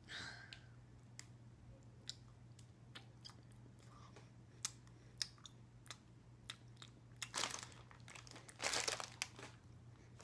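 A person chewing a mouthful of candy close to the microphone: small wet mouth clicks throughout, with two louder noisy stretches of chewing about seven and nine seconds in.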